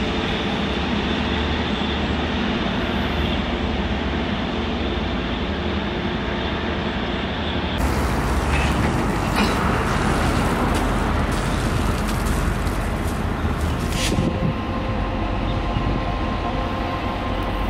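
Trains moving slowly, in three takes cut together. First a freight train of loaded hopper wagons rolls away round a curve. About eight seconds in, the R184 and R194 diesel-electric locomotives are shunting. About fourteen seconds in, EMU544, an EMU500-series electric local train, passes with a steady hum.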